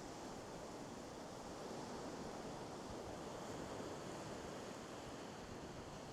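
Sea waves washing in over small boulders: a steady rushing wash of surf.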